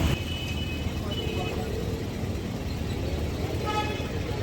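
Street traffic rumbling steadily, with short vehicle horn toots, the clearest a brief toot near the end.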